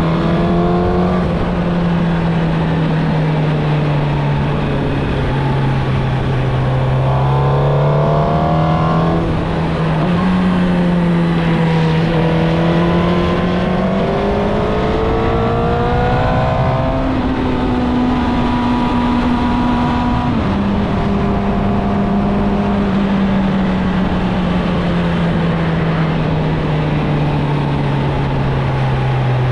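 Suzuki GSX-R1000 inline-four through its stock exhaust, under way: the engine note climbs twice under acceleration, jumping at the gear changes, and otherwise holds steady or slowly falls off, over a steady rushing noise.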